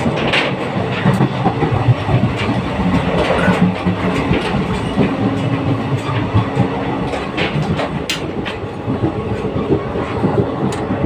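Moving passenger train heard from inside a coach: a steady rumble of wheels on the track, with a few sharp clacks.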